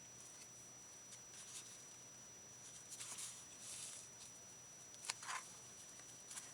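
Faint rustling as paper and lace trims are handled, with a light tap about five seconds in.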